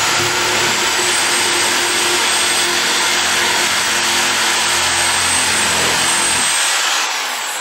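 A high-speed handheld power cutting tool running steadily at full speed with a high whine, cutting through material. About seven seconds in it is switched off and its whine falls away as it winds down.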